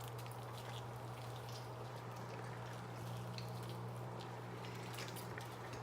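Faint wet squishing and small sticky clicks of homemade glue-and-borax slime being kneaded by hand, over a steady low hum.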